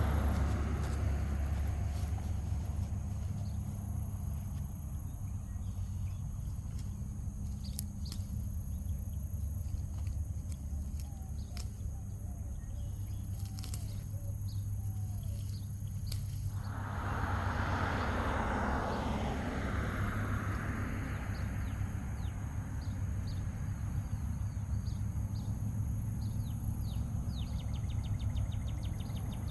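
Outdoor ambience: a steady low rumble with faint bird chirps and ticks, and a swell of rushing noise a little past halfway that fades after a few seconds.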